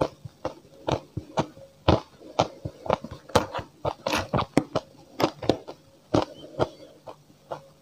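Close-up chewing of frozen, powdery matcha ice: irregular crisp crunches, two or three a second, as mouthfuls are bitten and ground between the teeth.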